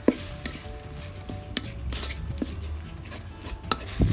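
Minced pork sizzling in a stainless steel wok while a wooden spatula stirs and scrapes it. Sharp knocks of the spatula on the pan come just after the start and again near the end, with lighter clicks between.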